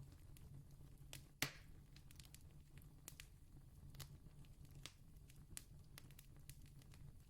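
Faint wood campfire crackling: scattered sharp pops and ticks, with one louder pop about a second and a half in, over a low steady hum.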